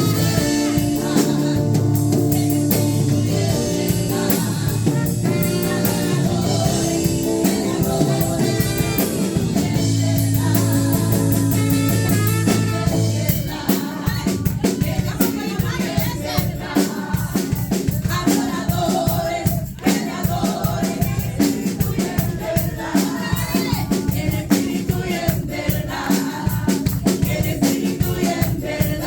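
Live worship music: singing over a band with drum kit, the drums' steady beat coming to the fore about halfway through.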